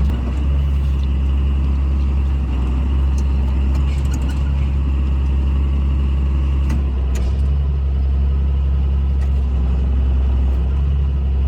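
A vehicle engine running steadily with a deep, constant hum, and a few faint clicks and rattles over it.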